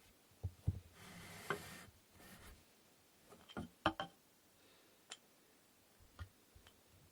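Wooden inkle loom parts being handled during assembly: scattered light knocks and taps of wood on wood, with one brief rubbing stroke about a second in.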